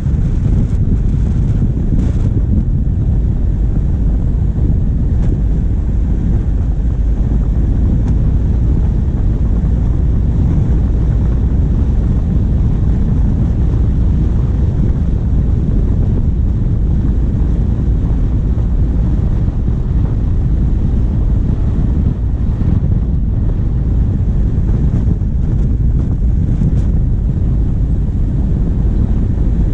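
Wind rumbling on the microphone of a bonnet-mounted camera over the steady running of a diesel vehicle's engine on the move; a loud, even low rumble without a break.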